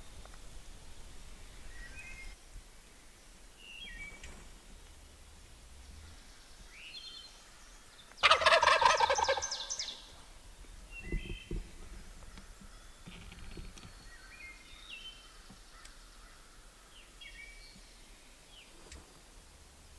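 Wild turkey tom gobbling once, loud, about eight seconds in, a rapid rattling call lasting about two seconds. Small songbird notes chirp faintly around it.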